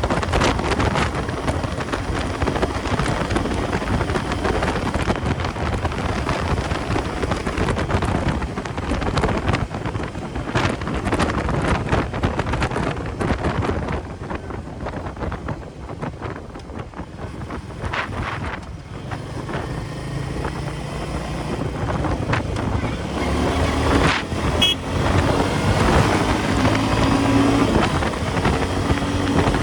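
Royal Enfield Meteor 350's single-cylinder engine running at highway speed under heavy wind buffeting on the microphone. Partway through the wind eases and the engine's drone comes through, rising slightly as the bike picks up speed. About two-thirds of the way in there is a brief high beep.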